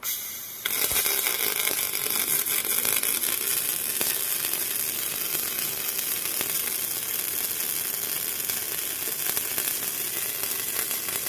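Robot arm's welding arc crackling and sizzling steadily. It starts abruptly and grows louder under a second in.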